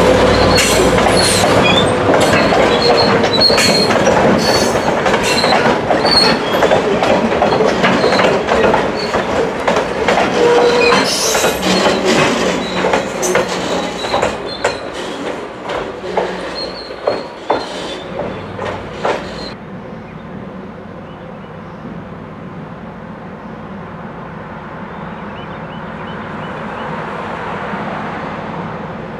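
Diesel freight train passing close by: the locomotive's engine, then loaded open-top hopper cars rolling past with rapid clicking of wheels over rail joints and some wheel squeal. About twenty seconds in this stops abruptly, giving way to a quieter, steady engine rumble that slowly grows louder as the locomotive approaches.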